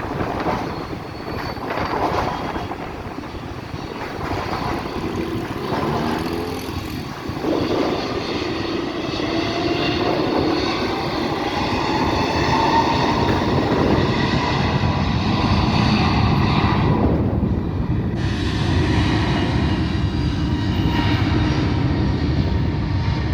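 Jet airliner engines passing low, a heavy rumble with a thin whine, growing louder partway through and holding loud.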